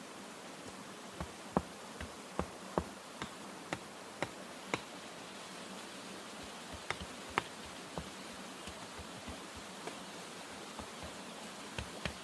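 A series of irregular sharp knocks or taps, bunched in the first half and again near the middle, over a steady background hiss.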